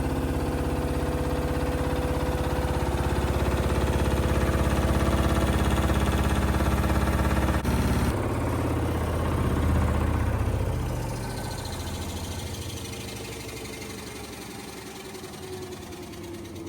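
LG washing machine spinning its drum at high speed, a steady hum over a low rumble, on a spin set to 1000 rpm. About eight seconds in the drive cuts off and the drum coasts down, its pitch falling as the sound fades.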